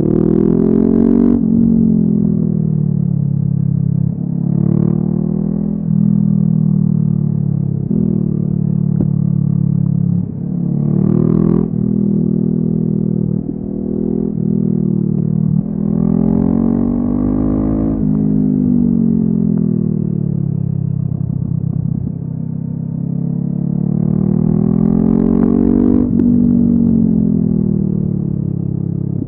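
Honda CB500F parallel-twin engine through a LeoVince aftermarket exhaust, ridden hard. The note climbs in pitch and drops abruptly at each upshift, about a dozen times in the first half. Later it slides down as the throttle is closed and climbs again twice as the bike pulls away.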